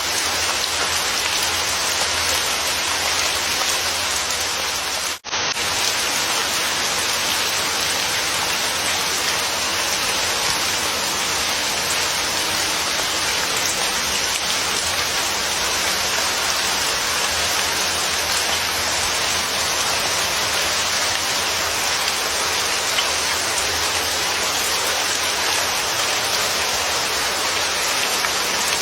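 Steady rain falling, an even hiss of drops, with a split-second dropout about five seconds in.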